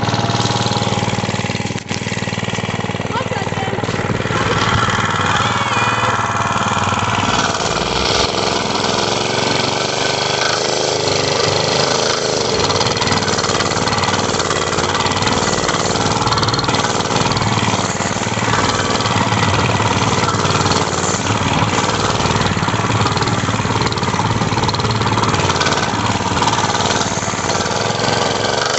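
Mini bike's small engine running steadily.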